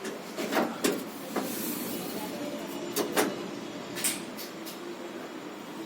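Scattered knocks and clicks of tools and parts being handled, about six in all, with a short hiss about a second and a half in.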